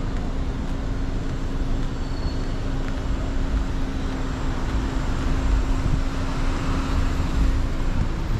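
City street traffic: vehicles running past with a steady low rumble and an engine hum that stops near the end.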